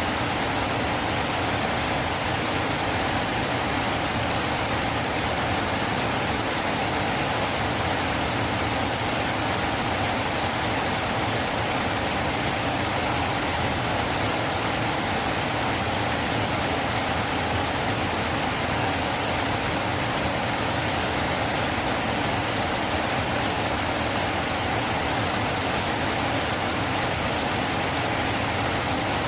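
River flowing: steady rushing water, an even hiss that does not change.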